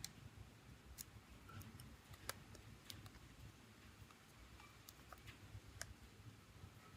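Faint, scattered small clicks and taps, roughly one a second, the sharpest a little over two seconds in, from small tools and parts being handled during a smartphone repair.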